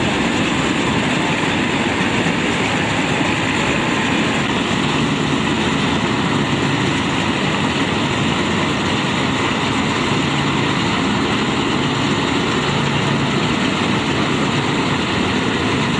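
A 4WD Shamsher combine harvester running steadily at an even level, with a low engine hum under dense machine noise.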